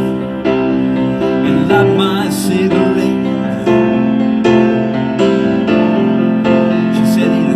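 Live piano playing an instrumental passage, chords struck roughly once a second and left to ring.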